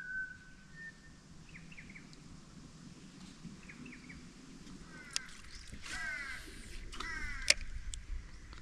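Faint bird calls: a short whistle, small clusters of quick chirps, then a few downward-sliding calls in the second half, with a couple of sharp clicks.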